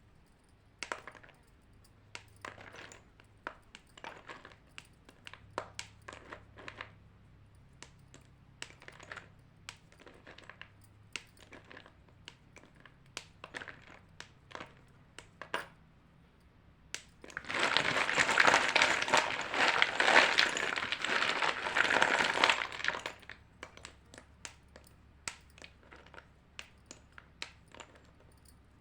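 White chalk being crunched: scattered small sharp crackles and snaps, then about six seconds of loud, dense crunching a little past halfway, before the snaps turn sparse again.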